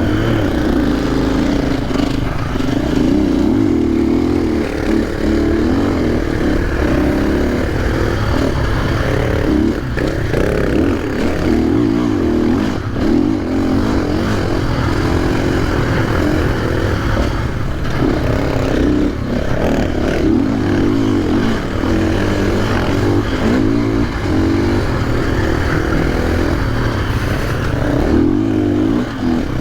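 KTM 500 EXC dirt bike's single-cylinder four-stroke engine running hard, its revs rising and falling continuously as it is ridden.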